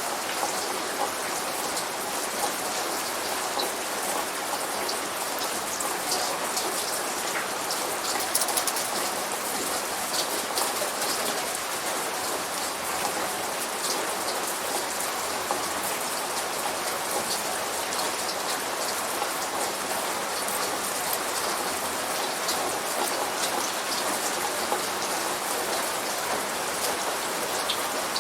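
Light rain falling steadily, with many small drop ticks.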